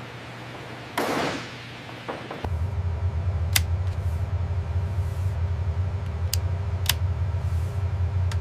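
A short whoosh-like burst about a second in. About two and a half seconds in, a loud, steady low hum starts, with a few sharp clicks over it.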